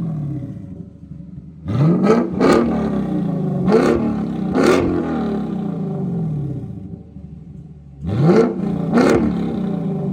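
Lexus RC F's 5.0-litre V8 on a custom Tunnel Ram performance exhaust, revved in short sharp blips that fall back each time: a cluster of four about two to five seconds in, then two more near the end.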